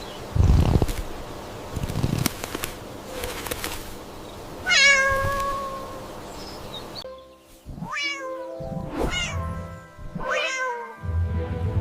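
Cat meowing four times over background music: one long drawn-out meow about five seconds in, then three shorter meows near the end. A couple of dull thumps come in the first seconds.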